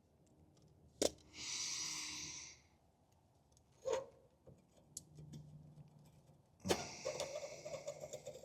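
Hands working on a truck's steering stabilizer: a sharp click about a second in, then a short hiss lasting about a second, another click, and near the end a steadier rough scraping sound.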